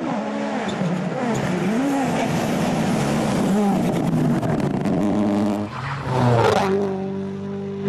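Rally car engine at high revs, its pitch repeatedly climbing and dropping with throttle and gear changes over a steady hiss. It swells loudest about six seconds in, then holds a steadier note near the end.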